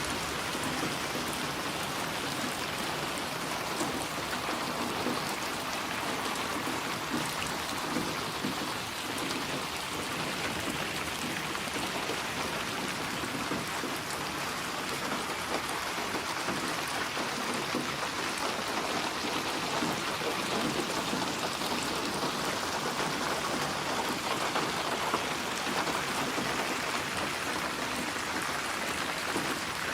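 Steady rain falling, an even dense patter without breaks and with no thunder.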